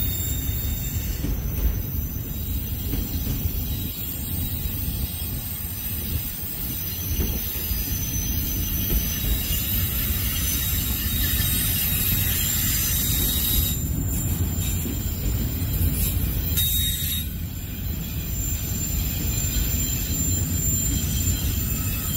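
Freight train of autorack cars rolling slowly past: a steady low rumble of steel wheels on rail, with thin high-pitched wheel squeals above it.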